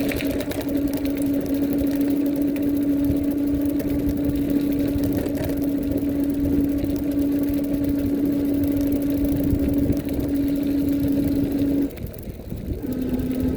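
Vivi e-bike's 350 W hub motor whining at one steady pitch under throttle, over a rumble of tyres and wind. Near the end the whine cuts out as the throttle is released, then comes back briefly.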